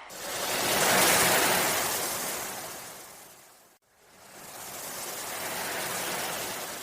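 Ocean waves washing in twice, each a rush of surf that swells and fades; the first is louder, and there is a sudden brief dropout between them.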